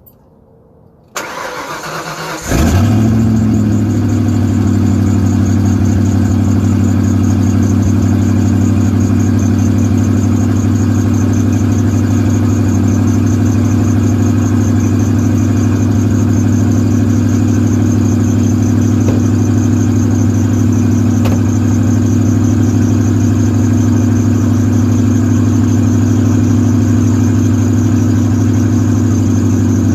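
Car engine cranked on the starter for about a second, then catching and settling into a steady idle, its exhaust leak repaired.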